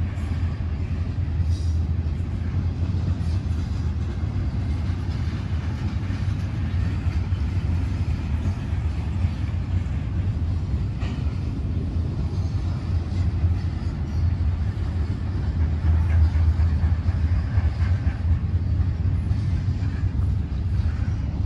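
Intermodal freight train of double-stacked container well cars rolling past: a steady low rumble of steel wheels on rail, with a few faint clicks.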